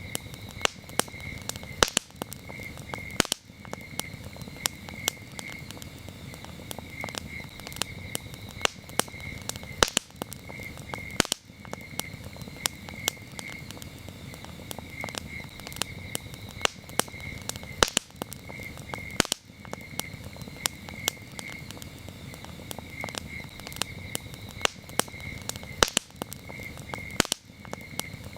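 Wood campfire crackling, with frequent sharp pops over a low, steady hiss of flame. Behind it, crickets chirp in short repeated groups.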